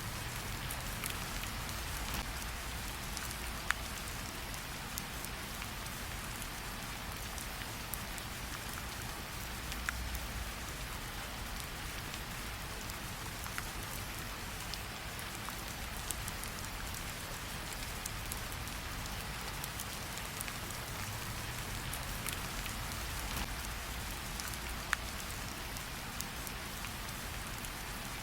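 Steady rain hissing, with a low rumble underneath and a campfire popping sharply a few times.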